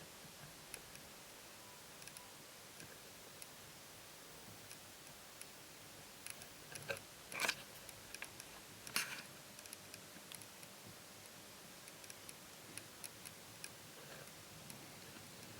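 Quiet handling noise: faint, scattered, irregular clicks, with two louder short knocks about seven and a half and nine seconds in.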